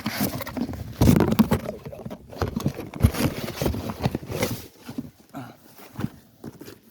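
Irregular knocks, clatter and rustling from handling the new replacement alternator, with many short uneven strokes and the loudest knocks about a second in and around three seconds in.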